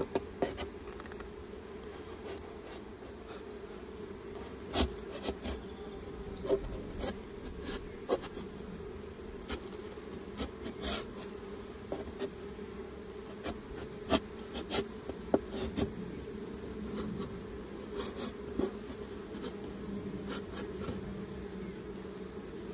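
Honeybees buzzing in a steady hum around an opened hive, from a colony that was described moments before as getting agitated. Scattered light clicks and knocks as hive parts are handled.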